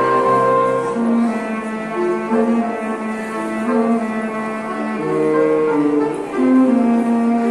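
A quintet playing chamber music live, several instruments holding sustained notes, with a repeated low line under a melody that moves in steps.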